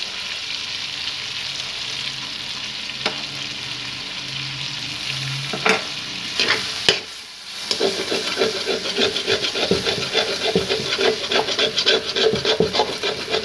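Chicken and ginger-garlic paste frying in butter in a metal karahi, a steady sizzle, with a few clicks of a metal spatula against the pan. From about halfway the spatula stirs and scrapes the pan in quick, continuous strokes.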